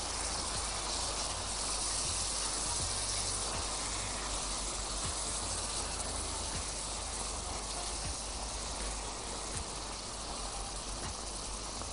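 Chopped onions and tomatoes sizzling in oil and butter in a frying pan: a steady hiss.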